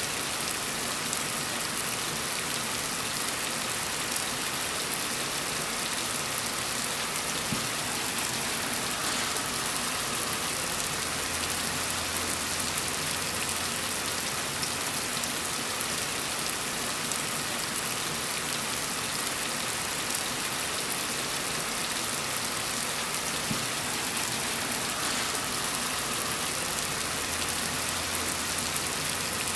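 Heavy rain falling steadily: a dense, even hiss of countless drops pattering.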